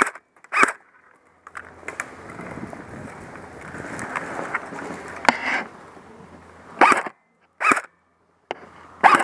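G4-A1 airsoft rifle firing single shots: two sharp pops at the start, three more spread through the middle, and a quick rattling burst near the end. A steady scuffling noise runs underneath between the shots.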